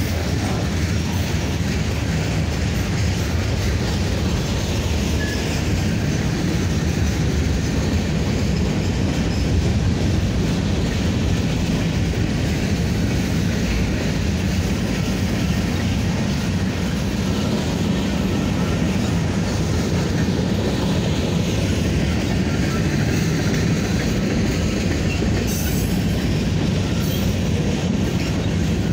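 Freight cars, mostly covered hoppers, of a slow-moving train rolling past close by: a steady noise of steel wheels running on the rails.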